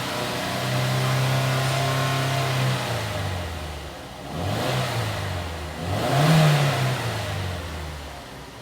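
Mazda CX-7's 2.3-litre turbocharged four-cylinder engine running: revved up and held for about two seconds, allowed to fall back, then blipped twice, after which the engine sound fades away near the end.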